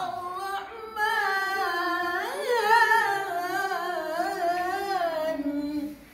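A single voice chanting a melodic phrase of Quranic recitation in a maqam (melodic mode), its pitch winding up and down with ornamented glides and settling lower before it stops just before the end.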